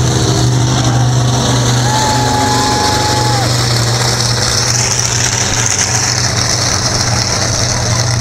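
Large vehicle engine running steadily at an even pitch, with a brief whistle-like tone about two seconds in that lasts a second and a half.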